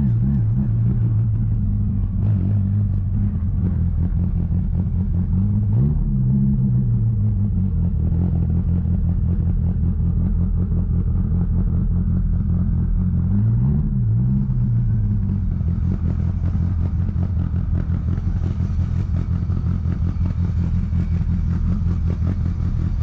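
Twin-turbocharged Dodge Viper V10 engine cruising steadily, heard from inside the car, with its pitch briefly rising and falling twice.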